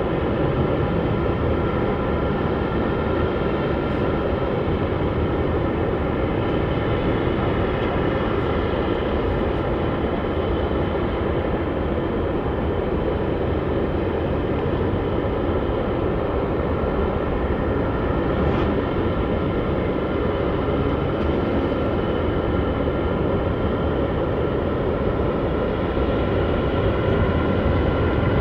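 Jet airliner engines running steadily: a constant heavy rumble with several high, steady whining tones over it, holding level with no rise or fall.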